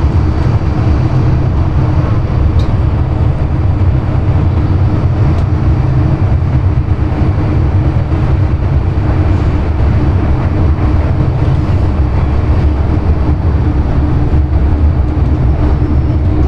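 MTR M-train electric multiple unit running along the line, heard from inside the car: a loud, steady rumble of wheels and running gear with a steady hum.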